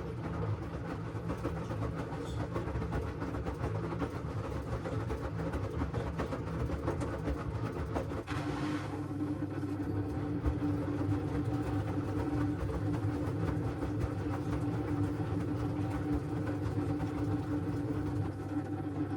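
LG washing machine running: a steady low rumble with light irregular clatter from the turning drum, joined about eight seconds in by a steady motor hum.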